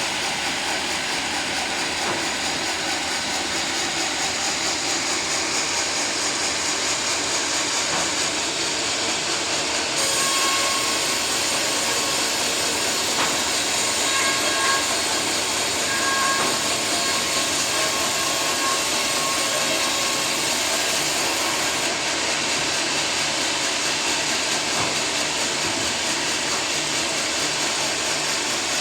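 Sawmill running steadily as its blade saws through a teak log. About ten seconds in, a brighter hiss joins the steady noise and drops away some twelve seconds later.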